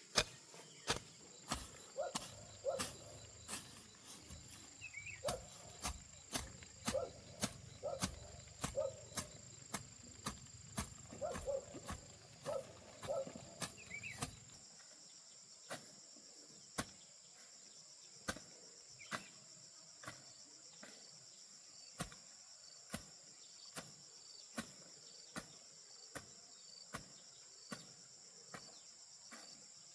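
Repeated sharp chopping strikes of a hand tool, about one a second, growing softer about halfway through, over a steady high buzz of insects.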